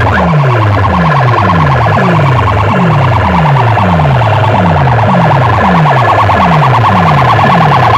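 Electronic competition track played loud over a DJ sound system: a falling bass sweep repeats about twice a second under a fast-pulsing, siren-like tone.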